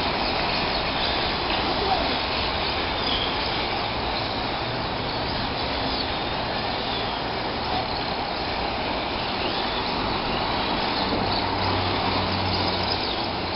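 Radio-controlled drift cars running, their motors whining up and down over a steady rushing background noise.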